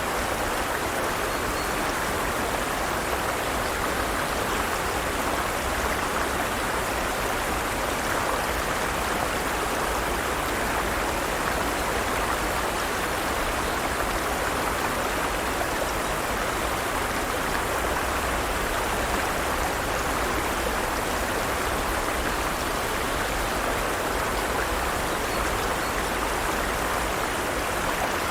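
Forest stream: water running steadily over rocks in an even, unbroken rush.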